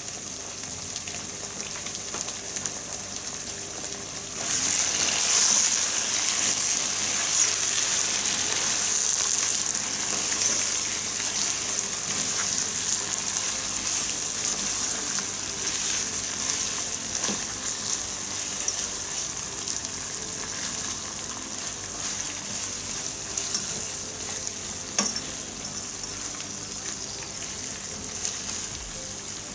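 Quail roast in thick masala sizzling in a non-stick pot on a gas burner, stirred with a wooden spatula. The sizzle gets louder about four seconds in, with faint scrapes throughout and one sharp knock of the spatula a few seconds before the end.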